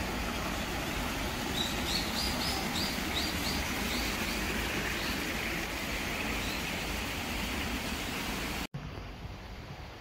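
A bird calling a run of about ten short high notes over a steady rushing outdoor background. Near the end the sound cuts to a quieter background.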